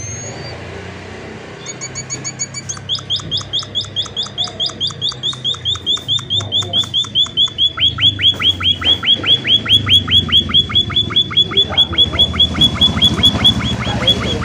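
A munia (emprit) calling in a fast, even run of short high chirps, about five a second, starting about two seconds in and growing louder.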